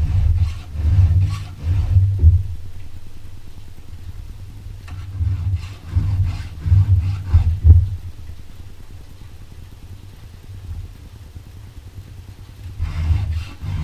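Hand file stroking across chainsaw chain teeth in runs of quick strokes, each with a low thump from the saw, with quieter gaps of a few seconds between runs.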